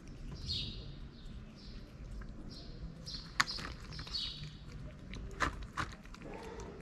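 Small birds chirping repeatedly in short calls. Over them come a few sharp clicks from a cat eating wet food out of a plastic tub, the loudest about a third of the way in and two more just past the middle.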